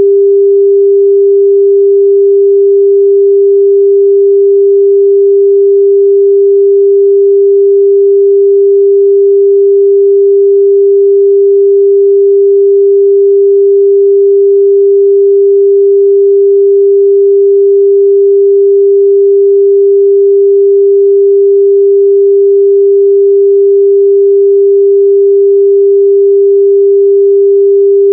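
A steady, loud 398 Hz sine-wave test tone: one pure, unchanging pitch.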